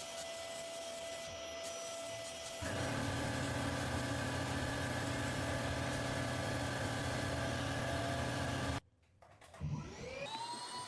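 Electric power tool motors running steadily; about two and a half seconds in the sound turns louder and lower. Near the end it cuts off abruptly, and a motor spins up with a rising whine that then holds steady.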